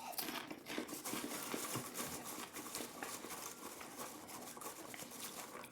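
A person chewing popped microwave popcorn close to the microphone: a continuous run of small crunches and crackles.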